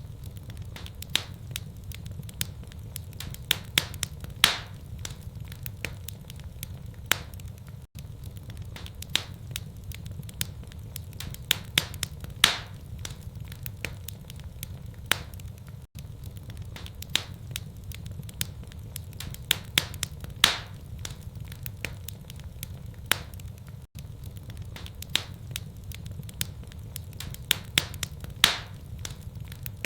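Wood fire in a fireplace crackling, with irregular sharp pops over a steady low rumble. The same stretch repeats about every eight seconds, with a brief dropout at each repeat.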